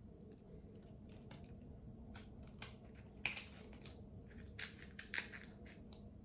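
Crab shell being cracked open while eating, a handful of sharp cracks and crunches, the clearest about a third of the way in and three close together in the second half, with soft chewing between.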